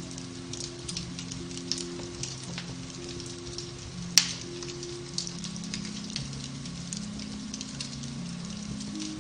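Beech-wood fire in a fireplace crackling steadily, with one loud pop about four seconds in. Soft, slow piano relaxation music plays underneath.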